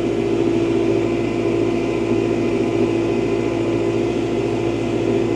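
Kubota tractor's diesel engine running at a steady speed while the tractor drives across the field, a constant hum with a strong low steady tone.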